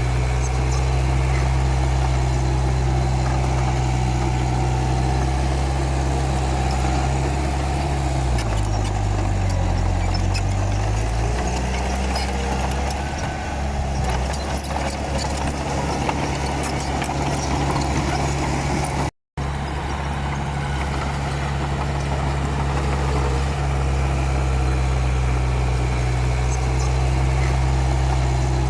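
Komatsu D31P bulldozer's diesel engine running steadily. About eight seconds in, its pitch dips for a few seconds and then recovers, as the engine lugs under load while pushing dirt. The sound breaks off for an instant about two-thirds through.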